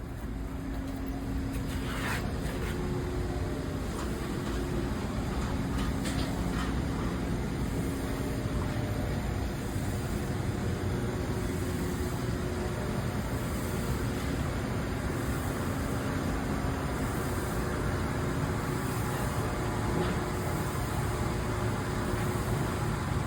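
A steady engine running throughout, with a low hum and a few short knocks about two and six seconds in.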